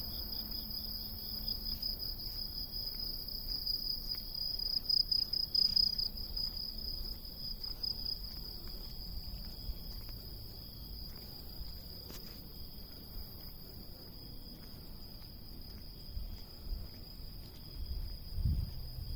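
Cicadas calling in a steady, high-pitched buzzing drone that swells a little about five seconds in. A few low thumps come near the end.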